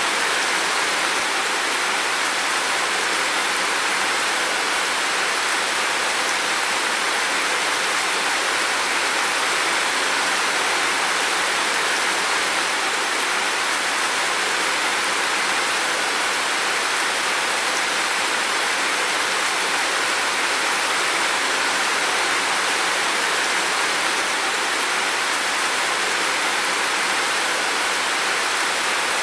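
Heavy rain falling in a steady, unbroken hiss, with no distinct drops or thunder standing out.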